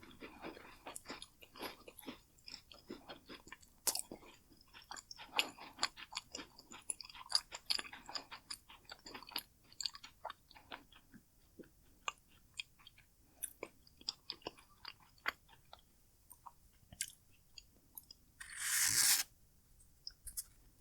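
Close-miked chewing of macaroons: crisp crunches and wet mouth clicks, dense at first and thinning out in the second half. Near the end comes one brief, loud rush of noise.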